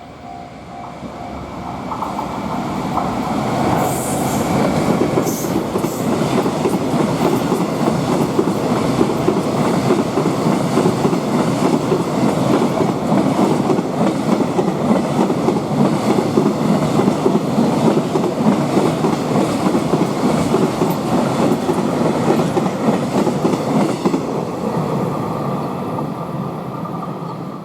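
A freight train hauled by an EF510 electric locomotive passing close by, its wheels clattering steadily over the rail joints. The sound builds up over the first few seconds, stays loud while the wagons roll past, and fades near the end. There are a few brief high-pitched wheel squeals about four to six seconds in.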